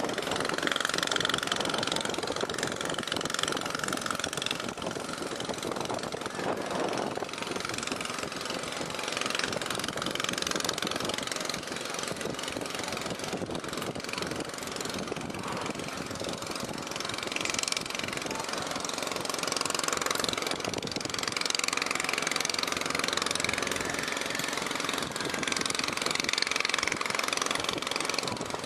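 Construction machinery engine running steadily with a rapid knocking beat, amid general building-site noise.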